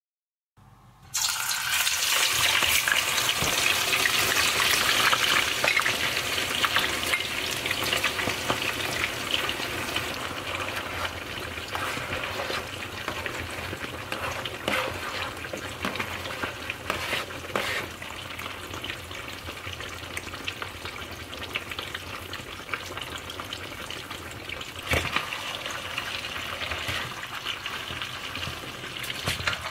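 Sliced potatoes and chopped onion frying in hot oil in a frying pan: a steady sizzle that starts abruptly about a second in and eases a little after the first few seconds. Scattered clicks and scrapes come from a metal knife turning the potatoes against the pan.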